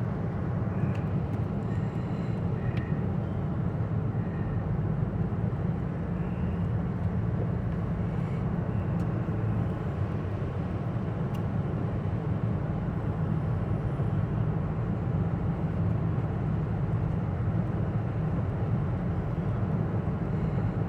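Steady low road and engine noise inside a moving vehicle's cabin, an even rumble with no change in speed.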